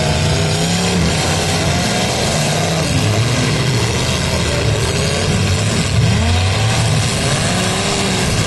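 Several full-size demolition derby cars' V8 engines running and revving at once, their pitches rising and falling over one another.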